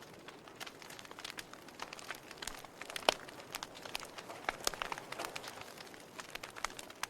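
Wood fire burning in a fireplace, crackling: irregular sharp pops and snaps over a soft steady hiss, the loudest pop about three seconds in.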